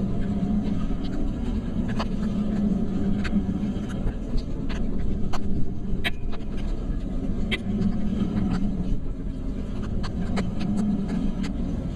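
Steady rumble of a vehicle driving, with scattered sharp ticks of light rain drops throughout.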